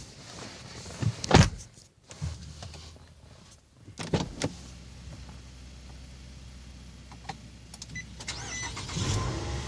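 A loud thump about a second in, then the Nissan Altima's 2.5-litre inline-four starts quickly and idles steadily. The engine is already warm from running earlier in the day. A few short electronic beeps sound near the end.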